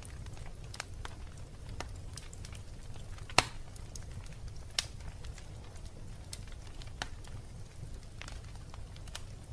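Wood fire burning in a fireplace with a low steady rumble and irregular crackles, including a sharp pop about three and a half seconds in and another a little over a second later.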